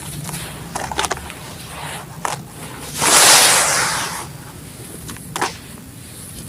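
Black sand-cement chunks crumbling: a few sharp, gritty crunches, and about three seconds in a louder rush of grit that lasts about a second as a piece breaks apart.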